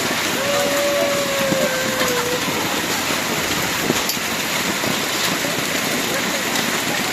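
Hailstones pelting down in a dense, steady clatter of countless small hits. About half a second in, a single held tone sounds for roughly two seconds and slides down at its end.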